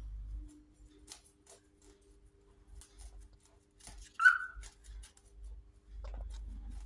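Cockatiel giving one short, loud chirp about four seconds in, among faint scattered clicks.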